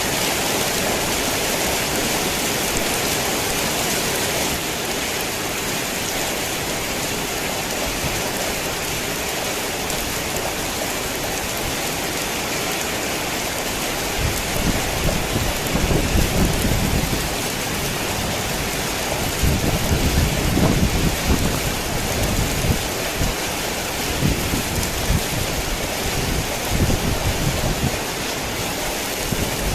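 Heavy rain falling steadily in a dense, even hiss. From about halfway in it is joined by irregular low rumbles that come and go.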